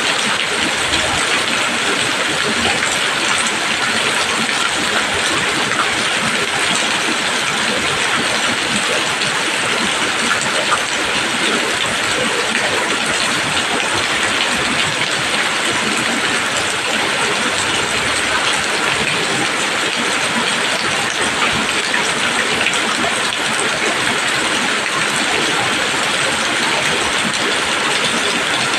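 Steady rain falling on leaves, a dense, even patter with no pauses.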